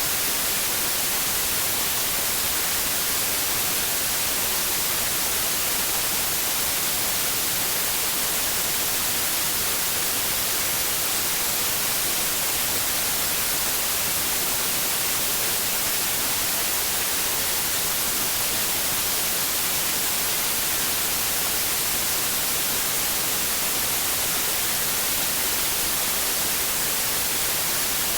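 Steady white noise: an even, unchanging hiss across all frequencies, played as a sleep aid for infants.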